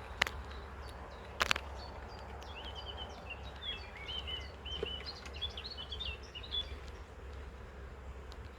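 Honeybees humming around an open hive, with two sharp knocks in the first couple of seconds. A bird chirps a string of short notes from about two seconds in to near the end.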